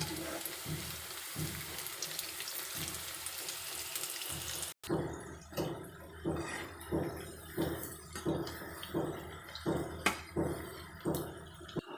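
Leftover-rice pakodas deep-frying in hot oil with a steady sizzle. After a cut about five seconds in, the sizzle is quieter and a spoon stirs them in the pan with soft, regular strokes, a little more than one a second.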